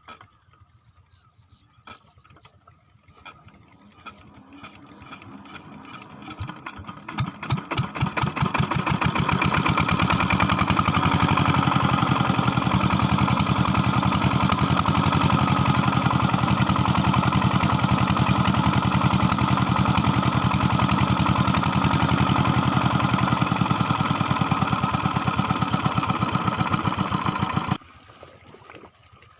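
8 hp diesel pump-set engine being started: a few knocks, then firing strokes that quicken for a few seconds until it runs loud and steady. Near the end the sound cuts off suddenly.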